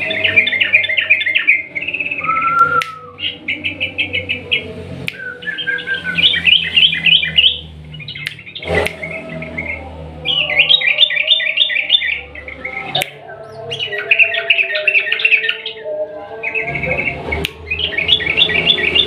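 Yellow-vented bulbul (trucukan) singing in long, rapid bursts of bubbly chattering notes, each lasting one to two seconds, repeated every few seconds. This is the long rapid-fire song kept birds are meant to copy. A few sharp clicks are heard among the phrases.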